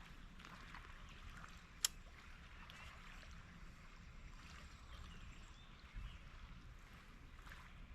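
Faint lake-shore background with water-like noise, broken by a single sharp click about two seconds in and a soft low thump near six seconds.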